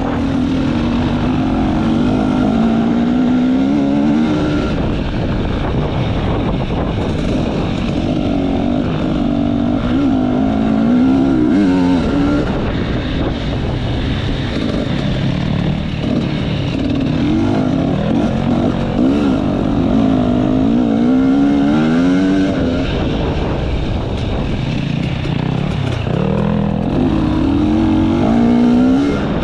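Enduro motorcycle engine running hard off-road, its revs rising and falling over and over as the throttle is worked.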